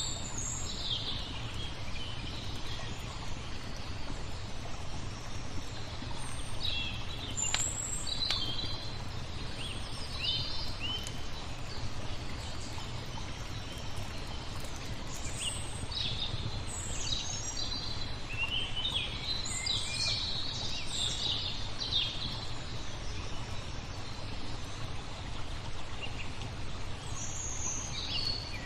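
Small birds chirping and twittering in scattered bursts, busiest about two-thirds of the way through, over a steady low background rumble.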